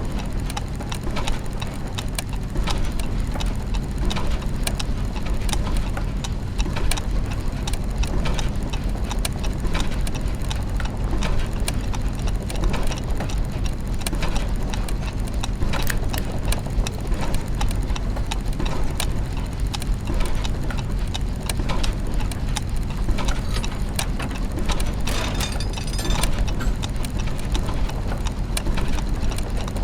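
Layered clockwork mechanisms and gears: many irregular ticks and clicks over a steady low mechanical hum, with a brief rattle near the end.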